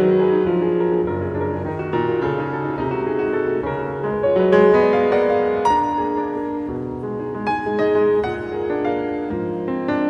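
Solo piano playing a classical piece: sustained chords and melody notes, with fresh notes struck every so often and a quicker run of strikes a little after the middle.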